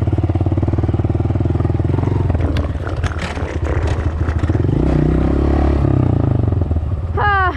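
Dirt bike engine running under way, pulling steadily, with the revs rising for a couple of seconds about halfway through before settling again.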